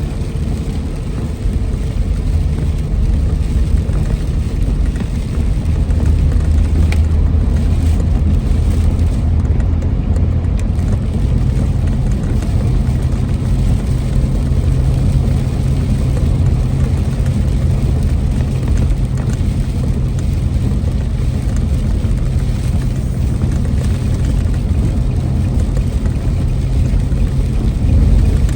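Car driving at highway speed: a steady low engine and road drone over tyre noise, the drone's pitch stepping up a couple of times.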